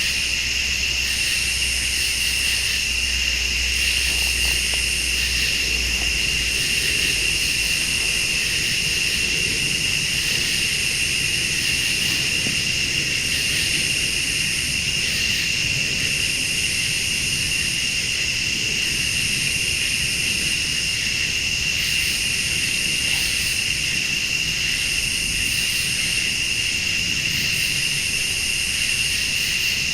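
A chorus of crickets and late-summer insects trilling steadily, with a higher insect call pulsing on and off every second or two. A low, distant rumble swells under it through the middle.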